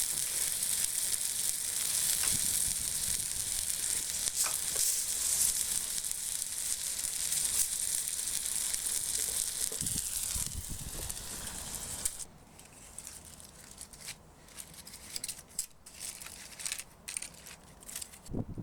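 Steak sizzling steadily on a hot forged iron plate. The sizzle cuts off suddenly about twelve seconds in, followed by quieter scattered scraping and clicks.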